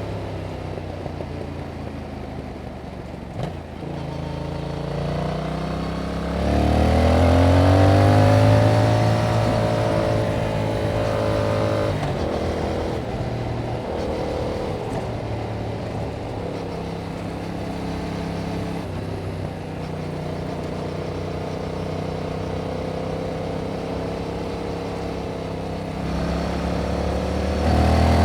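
2021 Yamaha MT-07's 689 cc parallel-twin, heard through its stock exhaust while being ridden. It starts low off the throttle, then revs up steeply about four seconds in and is loudest a few seconds later. It then holds fairly steady revs with small dips and picks up again near the end.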